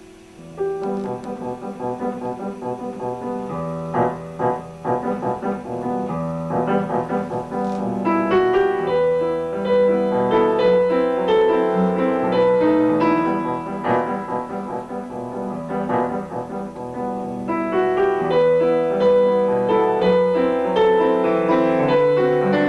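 Solo piano playing a classical piece live, with melodic runs over sustained chords. It starts about half a second in.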